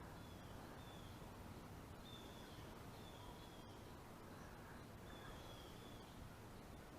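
Faint outdoor quiet with a bird repeating short, high, slightly falling chirps every second or so.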